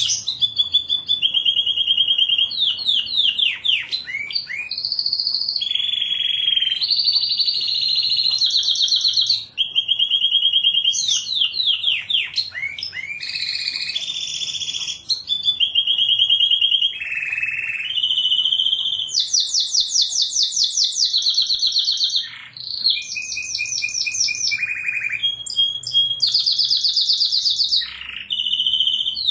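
Domestic canary singing a continuous song of rapid trills. Each trill is a run of quickly repeated notes held for a second or two before switching to the next, with fast falling sweeps in between.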